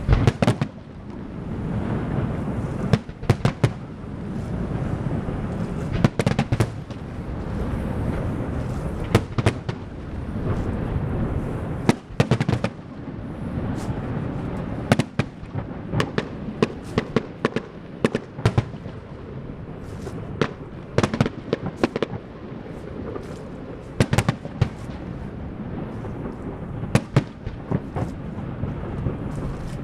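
Fireworks going off: many sharp bangs at irregular intervals, some in quick clusters of several, over a steady low rumble.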